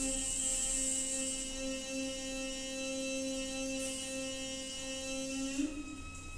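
Noisy water pipe humming: a steady pitched drone over the hiss of flowing water. About five and a half seconds in, the drone breaks off with a small click and gives way to a thinner, higher whine.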